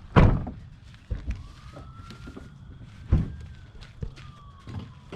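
Several heavy thunks, the loudest right at the start. Behind them a faint siren wails, slowly rising and then falling.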